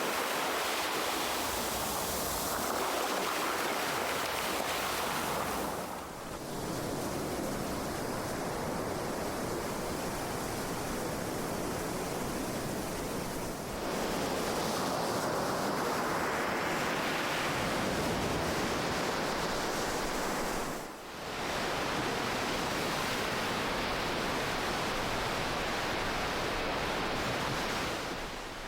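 Ocean waves washing continuously, a steady hiss of surf. It dips briefly three times, about every seven seconds.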